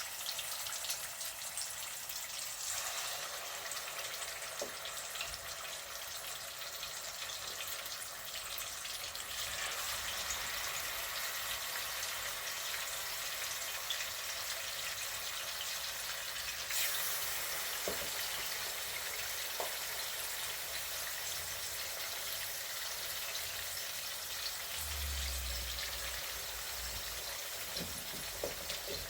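Chicken sizzling in hot oil in a pot: a steady hiss full of fine crackles, turning brighter and louder about halfway through.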